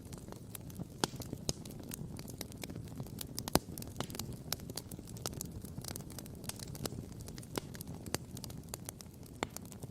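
Wood fire crackling and popping, with irregular sharp snaps and one louder pop about three and a half seconds in, over a steady low rumble of burning, which may hold ocean surf.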